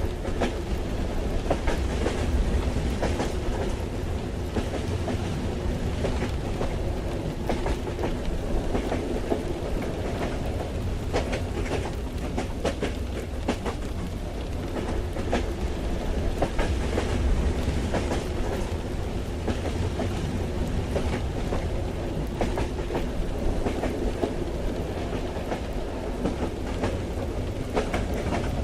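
Railway carriage interior ambience of a train running: a steady low rumble and hum with irregular clicks of the wheels over the rails, with rain.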